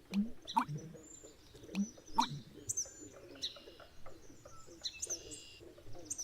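Birds calling: short rising chirps and high twittering, with short low notes in pairs every second or so.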